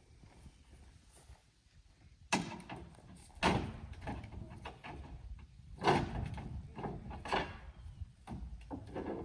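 Heavy knocks and clunks, four loud ones about a second or so apart, with rumbling between them, as a scrap grain truck is worked off a trailer.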